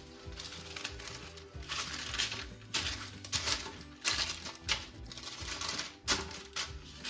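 Soft background music with repeated bursts of crackly rustling and clicking from something being handled close to the microphone, loudest in the middle of the stretch.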